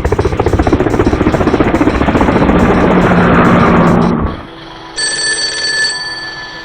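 A fast, rattling mechanical sound effect, loud and pulsing many times a second, cuts off about four seconds in. About a second later comes a bright, bell-like ding lasting about a second.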